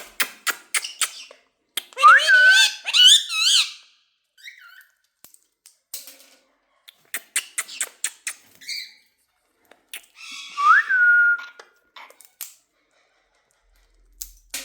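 Pet parrot whistling and chattering: quick runs of sharp chirps, and two loud rising whistles, the first about two seconds in with a wavering trill, the second later held as a steady note.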